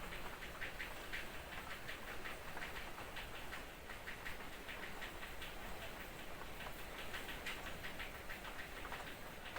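Light drizzle: a soft, steady rain hiss with irregular drops ticking and tapping on a surface, several a second.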